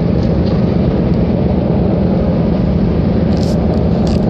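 Steady low rumble of a ferry's engines heard from the open deck, unchanging throughout, with a few short clicks near the end.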